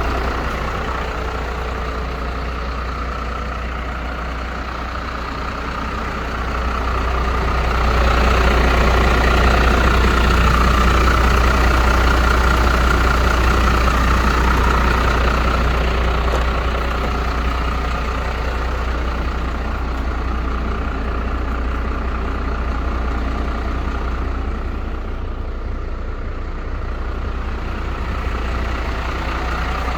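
MAN 12.250 truck's diesel engine running. It grows louder about seven seconds in, holds there for several seconds, then settles back to a steadier, quieter run.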